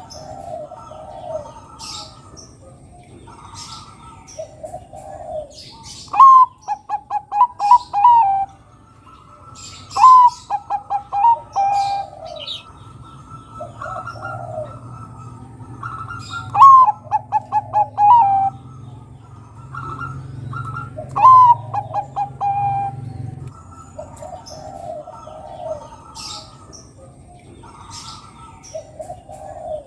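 Zebra dove (Bangkok-type perkutut) singing its cooing song: four loud phrases, each a rising note followed by a quick run of short, rhythmic coos. Softer coos and high chirps from other birds come between the phrases.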